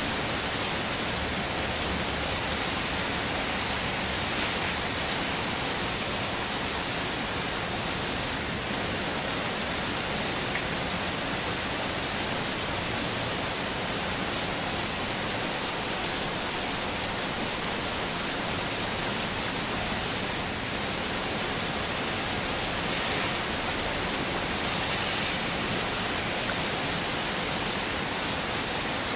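Heavy rain falling steadily, an even hiss with no single drops standing out, briefly dropping out twice.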